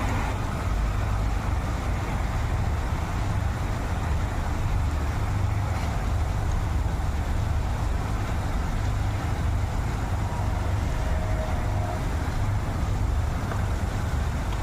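Steady low rumble of road traffic in the rain, a continuous hiss over a deep drone with no distinct events.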